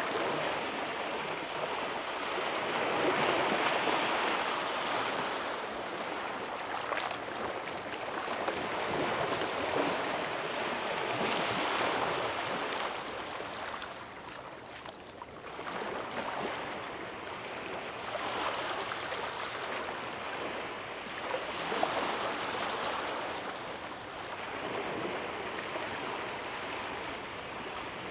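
Ocean waves washing on the shore, a steady rush that swells and eases every few seconds, dipping briefly about halfway through.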